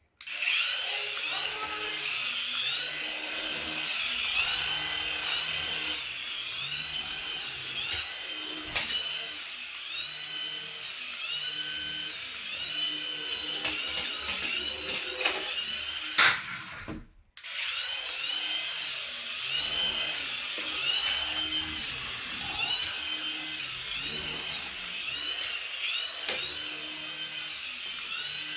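A toy's small electric motor whining, its pitch rising and falling again and again, about once a second. The sound drops out briefly about 17 seconds in.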